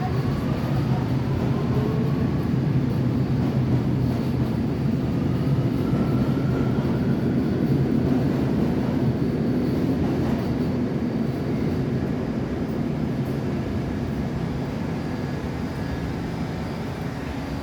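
New York City Subway R68 train running, a steady rumble and hum with a faint whine that rises slowly in pitch twice.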